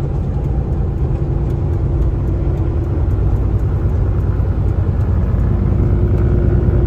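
Kenworth T680 semi truck driving at highway speed: a steady low engine and road rumble that grows slightly louder.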